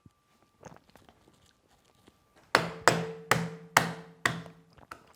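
Five hard knocks on a hard surface in quick succession, about half a second apart, starting about halfway through.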